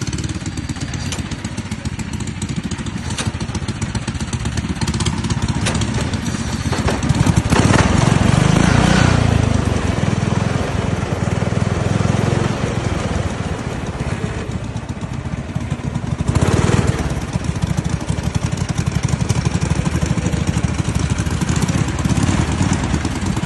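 Lawn tractor's small engine running steadily. It grows louder for a couple of seconds about seven seconds in, and briefly again near sixteen seconds.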